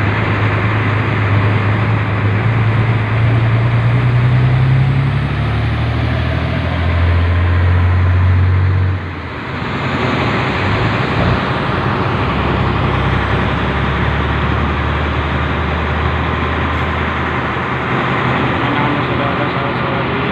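Locomotive engine running with a steady low hum while the train rolls along the track, heard from on board. The engine note drops abruptly about nine seconds in, then runs on steadily at a lower pitch.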